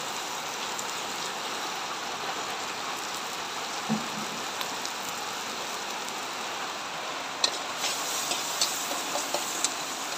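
Julienned carrots and mushrooms sizzling in hot oil in a wok, a steady hiss. There is a dull knock about four seconds in, and in the last few seconds the spatula clicks and scrapes against the wok several times.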